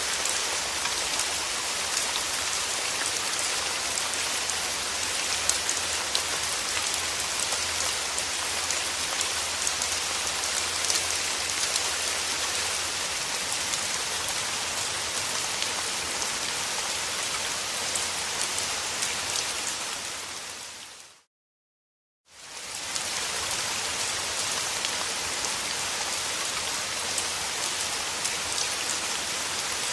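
Steady rain with dense drop ticks. About two-thirds of the way through it fades out to a second of silence and fades back in.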